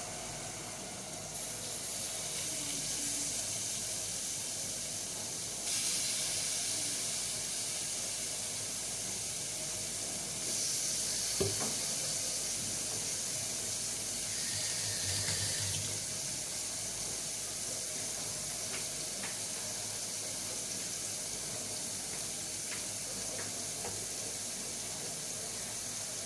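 Boneless chicken kebab pieces sizzling as they fry in butter in a kadai, a steady hiss that grows louder in a few steps; a single light knock about eleven seconds in.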